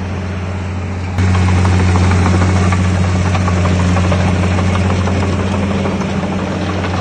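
Heavy diesel earthmoving machinery running steadily, a low engine drone with a rough, rattly edge, which jumps abruptly louder about a second in.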